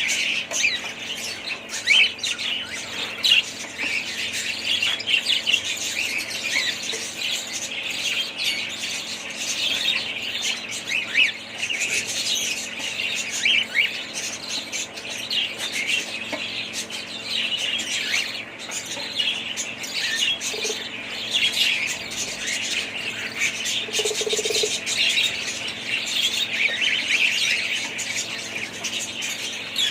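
A flock of budgerigars chirping and chattering without pause, many short calls overlapping.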